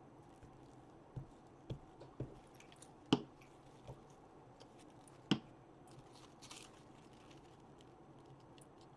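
Paper and craft tools being handled on a table: scattered light taps and clicks, two sharper knocks about three and five seconds in, and a brief rustle of paper a little after six seconds.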